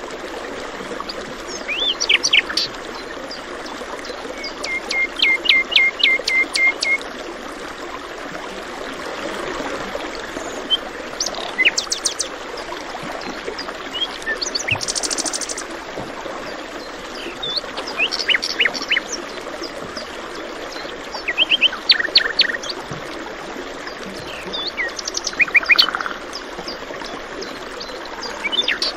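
Steady rush of flowing water with songbirds calling over it: bouts of sharp chirps every few seconds, including a quick run of about eight repeated notes a few seconds in.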